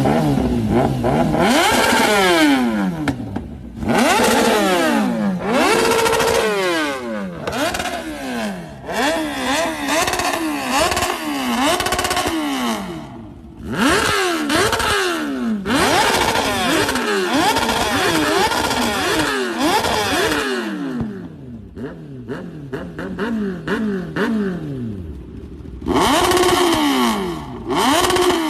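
Kawasaki ZX-10R inline-four sportbike engine revved through its exhaust again and again, the pitch climbing with each throttle blip and sliding back down. It comes in bursts of repeated revs, with a quieter lull a little after the middle, then two more sharp revs near the end.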